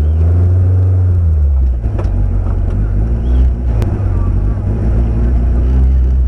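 Trial 4x4's engine heard from inside the car, running with a deep, steady tone and a brief rise and fall in revs in the first second or so. Two sharp clicks come about two and four seconds in.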